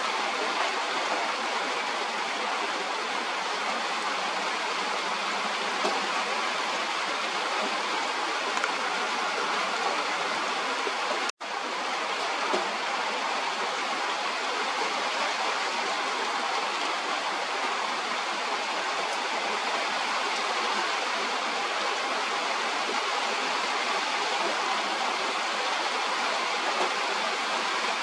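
Steady hiss of falling rain, even and unbroken, with a momentary dropout about eleven seconds in.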